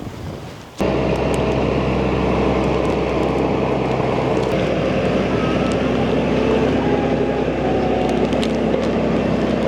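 A small farm vehicle's engine runs steadily with a low, even hum under rumbling noise. It cuts in abruptly about a second in.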